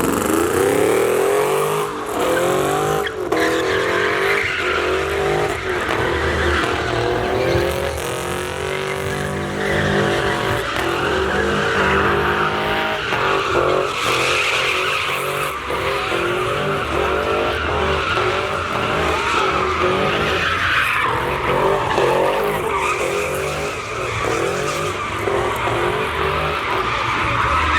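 Pickup truck doing a burnout: the engine is held at high revs that keep rising and falling, with the rear tires spinning and squealing on the pavement.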